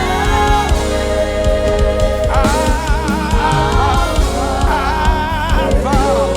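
Gospel praise-and-worship music: singers hold long notes with a wide vibrato over a band with a heavy bass.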